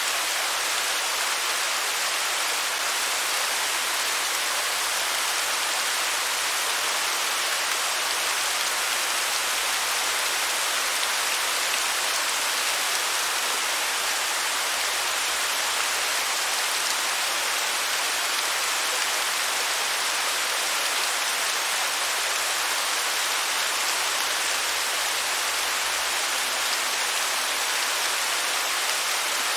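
Waterfall: water cascading in a steady, even hiss, strongest in the highs and with little low rumble.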